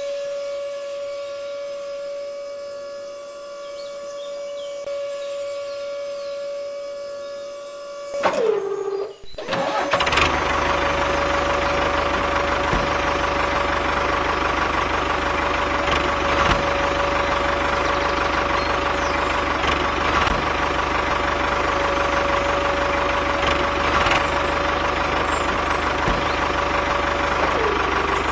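Small DC electric motor of a homemade toy tractor whining at a steady pitch. About eight seconds in it slows and stops for a moment, then starts again louder with a rougher, noisier sound. Near the end its pitch drops as it slows.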